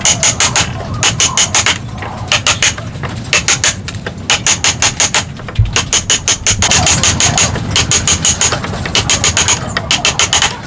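A hand tool working wood in quick bursts of short, rapid strokes, several a second, with a bright ringing edge, pausing briefly between bursts.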